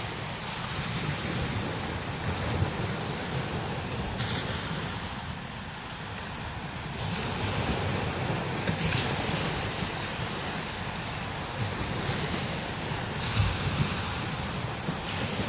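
Strong desert wind blowing over sand dunes, rising and falling in gusts, with low buffeting on the microphone under a steady hiss.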